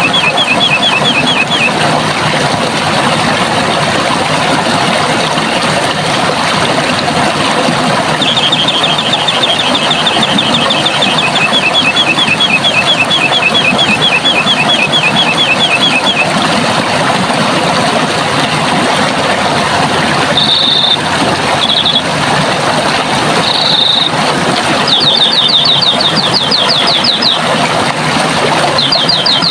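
Running water rushing steadily, with a small bird singing over it in rapid trills of quick repeated high notes. Several trills come and go, with a few short single calls between them about two-thirds of the way through.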